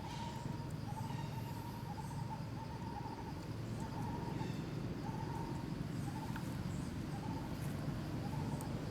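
A bird repeating a short call at one steady pitch, about once a second, over a steady low background rumble.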